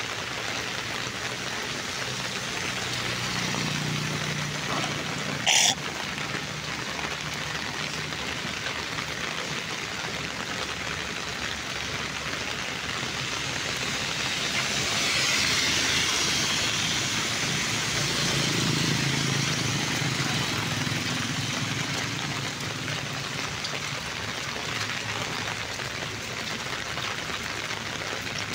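Steady hiss of rain and water on a flooded street, with passing traffic humming in twice, around four and around nineteen seconds in. A brighter hiss swells about fifteen seconds in, and a single sharp knock comes about five and a half seconds in.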